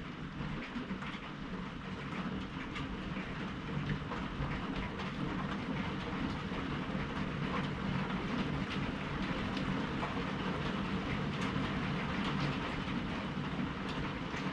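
Steady rain during a thunderstorm: a continuous rushing noise over a low rumble, with many small sharp drop ticks throughout.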